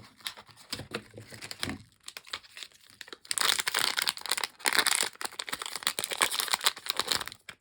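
A blind-bag package being handled, then torn open and crinkled with rapid, crackly rustling from about three seconds in.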